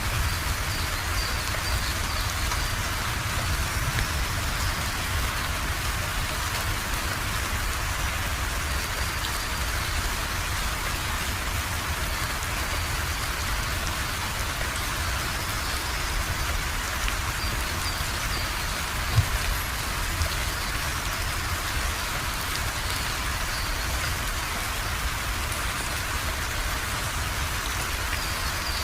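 Steady rain falling and pattering on surfaces, an even hiss without let-up. One brief louder tap stands out about two thirds of the way through.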